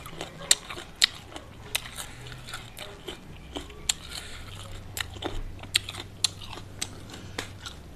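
Close-miked chewing of crispy fried chicken dipped in raw sambal, with irregular sharp crunches between softer mouth sounds.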